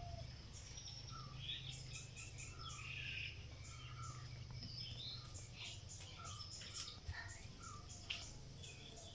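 Outdoor ambience of birds chirping in short, repeated calls, over a steady low hum.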